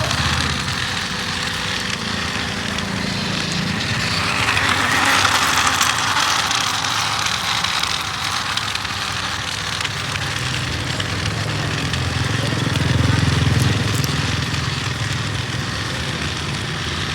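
Remote-control toy tractor running steadily, its sound swelling twice.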